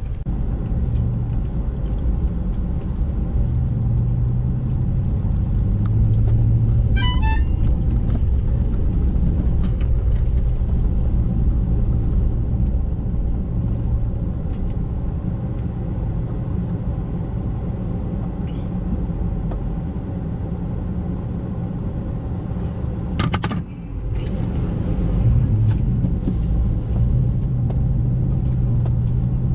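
Used plow truck driving at highway speed: a steady engine and road rumble with a low hum that swells and fades.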